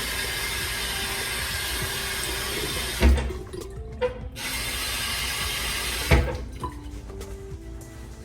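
Bathroom sink faucet running hard at high pressure, then shut off with a sharp knock about three seconds in. It runs again briefly and is shut off with another knock near six seconds, after which faint background music is left.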